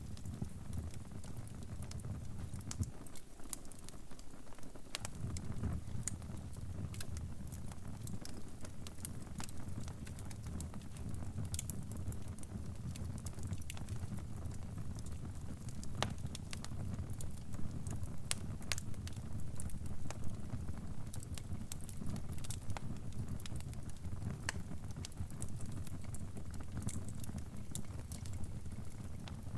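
Crackling fire: irregular sharp pops and snaps over a steady low rumble of burning.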